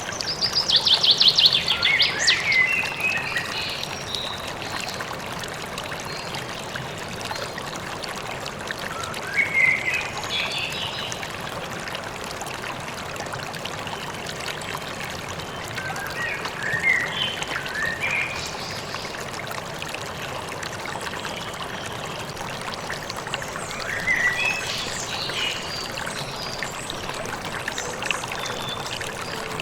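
Steady rushing of a stream, with songbirds singing over it: a fast falling trill at the start, then short chirping phrases about every seven seconds.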